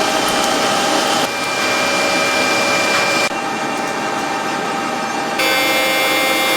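Factory machinery running with a steady whirring noise and several high whining tones. The sound changes abruptly three times, about a second, three seconds and five seconds in.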